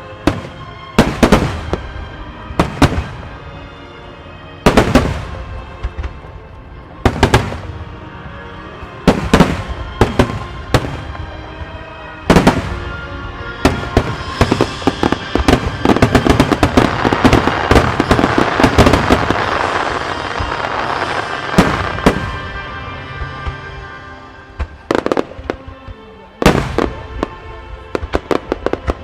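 Aerial firework shells bursting one after another in sharp bangs over music. Around the middle comes a dense barrage of rapid bursts and crackle lasting several seconds, then single bursts again near the end.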